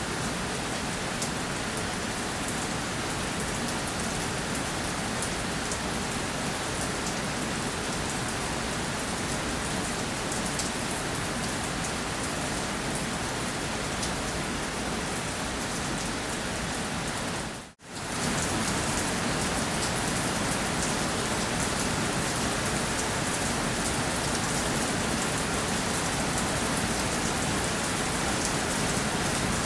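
Steady rain falling on a surface, an even hiss with fine drop ticks. About two-thirds of the way through it cuts out for a split second and comes straight back.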